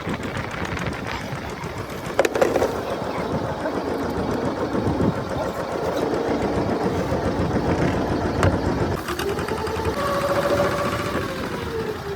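Fishing boat's engine running steadily at sea. There is a sharp knock about two seconds in and a short held tone near the end.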